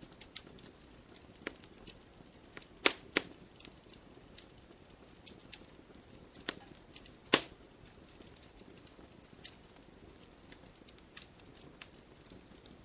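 Campfire crackling: irregular sharp pops and snaps over a faint steady hiss, with a few louder pops about three seconds in and again past seven seconds.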